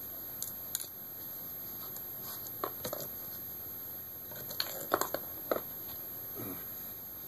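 Scattered light clicks and taps of laptop parts being handled: plastic bezel and small screws or tools knocking against the case, a few at a time with pauses between.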